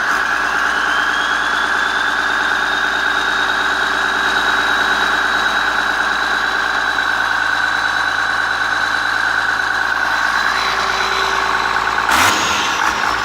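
Case 6TA830 (Cummins 8.3-litre) six-cylinder turbodiesel running steadily just after starting, with a high whine that rises over the first couple of seconds and then holds steady. A short, louder noise comes about twelve seconds in.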